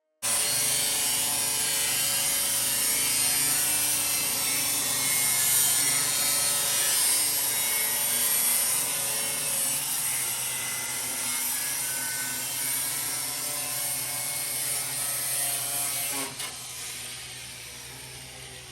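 A power tool running steadily with a hissing whir, starting abruptly and dying away over the last couple of seconds.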